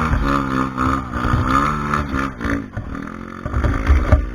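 A trail motorcycle's engine revving up and dropping back again and again, its pitch rising and falling as the throttle is worked hard on a steep uphill climb. It is loudest just before the end, then falls away.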